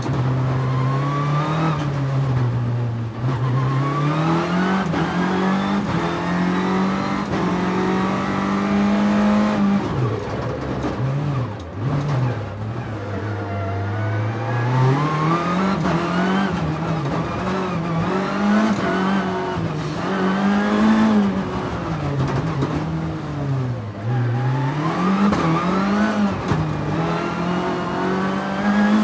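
Nissan 300ZX's V6 engine pulling hard and easing off on a winding road, its note climbing through each gear and dropping suddenly at the upshifts, over and over. Tyre and wind noise from a camera mounted low on the car run underneath.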